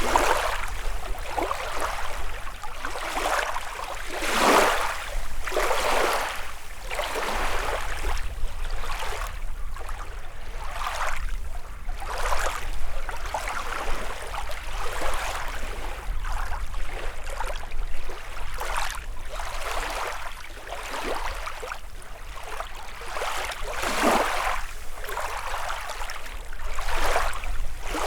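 Small lake waves lapping and washing onto the shore, one after another every second or two, with a couple of stronger splashes along the way.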